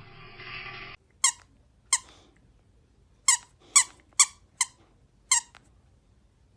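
Seven short, high-pitched squeaks at uneven intervals.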